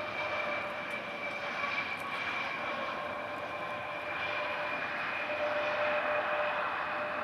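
Turbofan engines of a jet airliner running with a steady high whine and a lower tone over a broad rushing noise, slightly louder in the second half.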